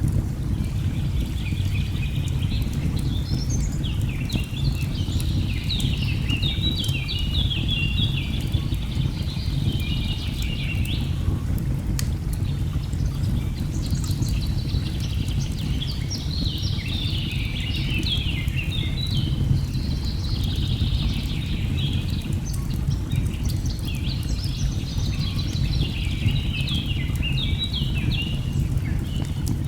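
Steady low rush of falling water, with birds singing over it in long spells of quick chirping phrases and a few faint crackles from a wood fire.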